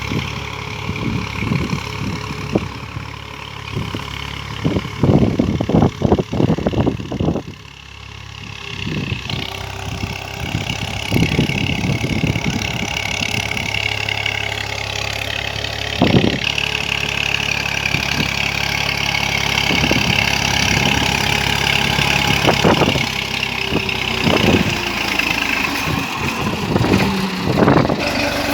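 Tractor engine running steadily, with a run of loud knocks and clatter about five to seven seconds in and scattered single knocks later.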